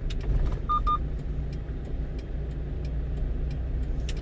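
Steady low engine and road rumble inside the cab of a 1-ton truck on the move. Two short electronic beeps sound together under a second in.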